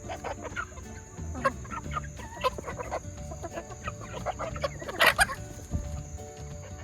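A flock of junglefowl-hybrid and game chickens clucking and calling, with many short overlapping clucks and one louder call about five seconds in.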